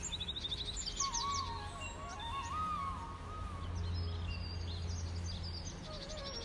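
Birds chirping and twittering in rural ambience, with a wavering whistled call about a second in, over a low steady hum.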